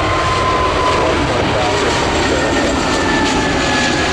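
Jet airliner engines at takeoff power, a loud steady roar with a high whine that slowly falls in pitch as the jet passes on departure.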